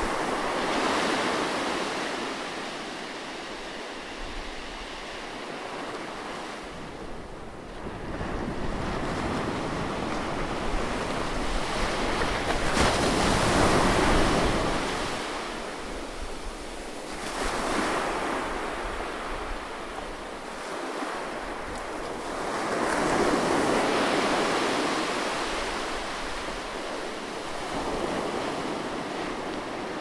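Ocean waves breaking over shoreline rocks and washing back, in slow swells of surf noise. There are four surges, the loudest a little before halfway.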